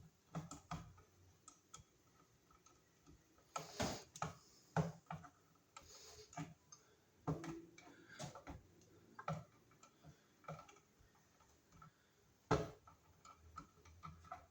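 Irregular clicks and snaps of wire strippers and copper wire being worked by hand, about one a second, while an electrical wire is stripped and handled at a wall box; the sharpest snap comes near the end.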